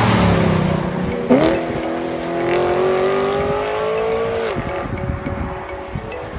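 BMW M3's V8 engine revving hard under acceleration: its note climbs steadily for about three seconds, then cuts off.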